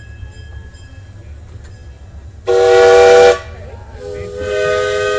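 Steam locomotive whistle blown twice, a short loud blast and then a quieter, longer one, each a chord of several notes, over the low rumble of the train running.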